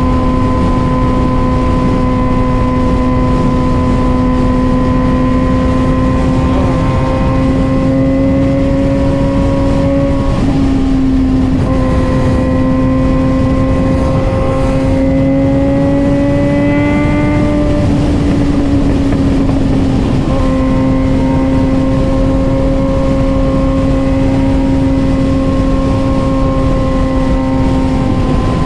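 Suzuki GSX-R600 inline-four engine running at a steady high pitch under wind noise on the helmet microphone. Around the middle the pitch climbs slowly, then drops back and settles steady again.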